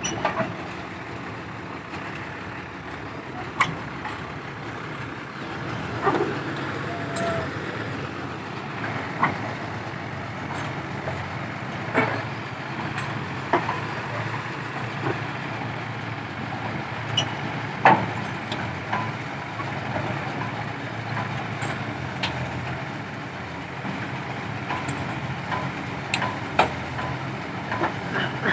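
Diesel engine of a Nissan D308-S piling rig running steadily, with sharp knocks every few seconds, the loudest about two-thirds of the way through.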